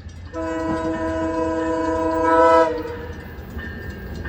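Locomotive air horn sounding one long blast of several notes at once, growing louder just before it cuts off, over the low rumble of the train.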